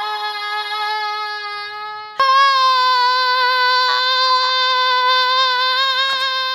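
A woman's voice holding a long high note at a steady pitch, which jumps abruptly to a higher held note about two seconds in.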